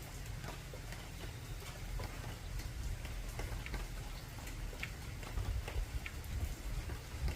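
Raindrops ticking irregularly on an old galvanized tin roof, over a low rumble of thunder that swells near the end.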